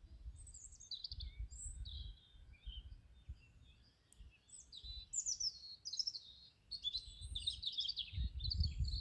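Songbirds singing, a busy run of short chirps and trills, over a low rumble that grows stronger near the end.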